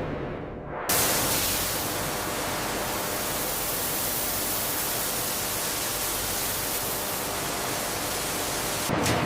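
A steady, even hiss that starts suddenly about a second in and cuts off suddenly near the end.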